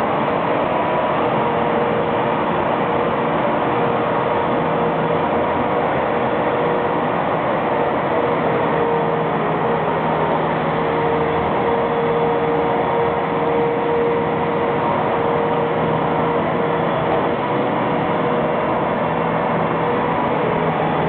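Tractor with a sweeper broom running steadily, its engine drone mixed with the even noise of the brush sweeping dirt off concrete.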